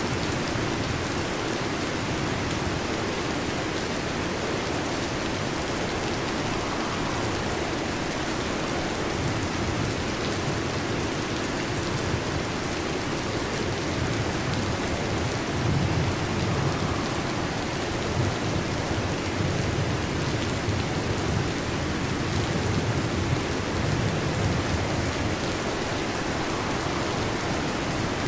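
Heavy rain drumming steadily on a metal roof, with low rolls of thunder swelling in the second half.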